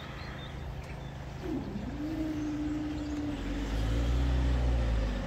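A road vehicle's engine runs close by, its low rumble growing louder about three and a half seconds in. A steady hum joins it about two seconds in.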